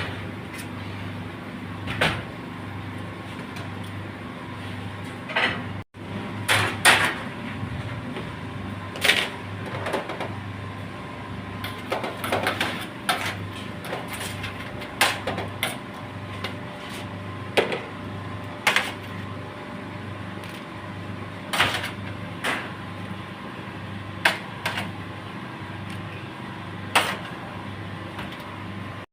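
Kitchen handling noise: irregular knocks and clicks of utensils and containers being handled, over a steady low hum.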